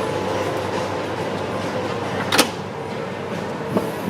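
Steady onboard noise of a cruise ship, with a sharp knock a little over halfway through and a fainter one near the end.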